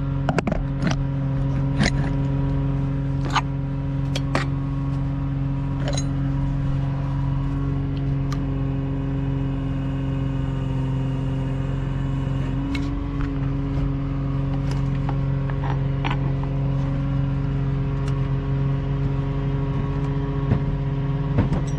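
An engine running steadily at a constant speed, driving the boom or winch that lifts the engine out, with a slight rise in pitch about halfway through. Sharp knocks and clanks sound every second or two early on and again later, as the hoisted engine is worked loose from its locating dowels.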